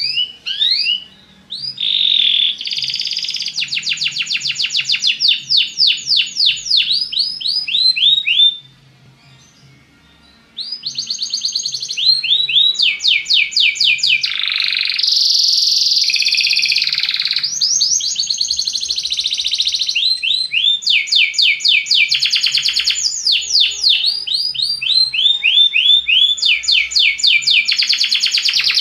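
Belgian canary singing: long, fast trills of quickly repeated rising notes. The song breaks off for about two seconds roughly a third of the way in, then runs on without stopping.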